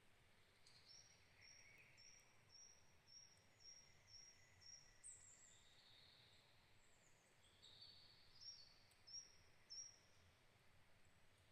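Faint forest birdsong: one bird repeats a short high note about twice a second, with another series of high notes near the end and a few lower calls from other birds over a soft steady background.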